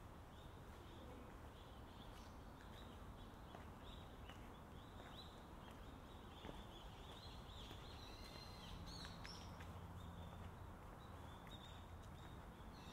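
Faint outdoor ambience: small birds chirping over and over, high and brief, over a low steady rumble. About two-thirds of the way through, a low drone grows a little louder for a couple of seconds.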